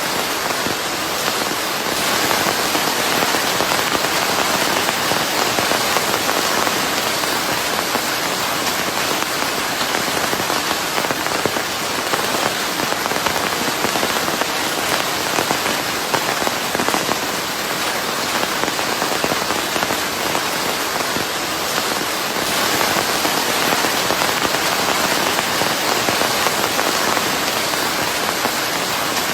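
Steady, dense rain falling on a surface, with a constant hiss of white noise.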